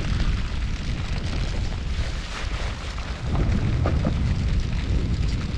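Wind buffeting the microphone of a camera on a moving Honda Super Cub C125: a heavy, uneven rumble with a hiss over it that grows louder about three seconds in.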